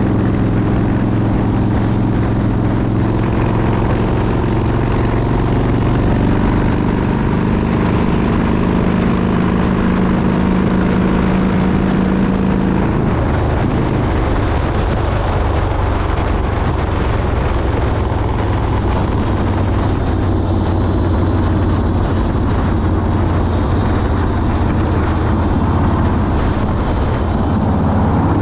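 Motorcycle engine running steadily at road speed, with wind rushing over the microphone. A little less than halfway through, the engine's note shifts, its higher tones dropping away.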